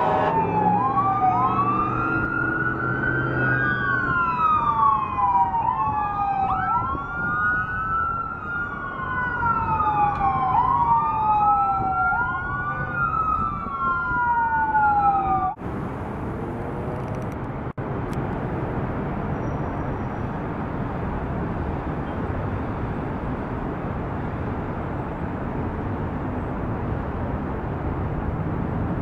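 Emergency vehicle siren wailing, its pitch rising and falling about every two and a half seconds, over the rumble of engines and traffic. It cuts off suddenly about halfway through, leaving a steady hum of street traffic.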